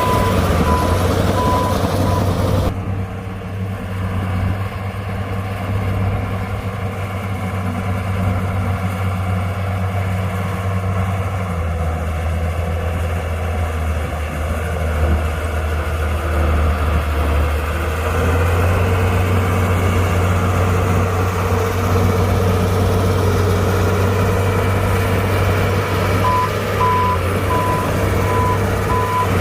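Heavy diesel engines of a bulldozer and dump truck running steadily, with the engine note rising and falling under load. A reversing alarm beeps about twice a second at the start, stops a few seconds in, and starts again near the end.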